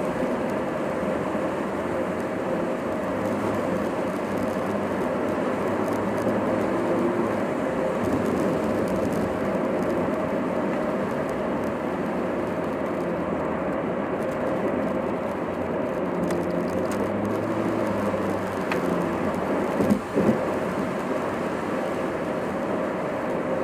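Steady road and engine noise inside a moving car, with a short knock about 20 seconds in.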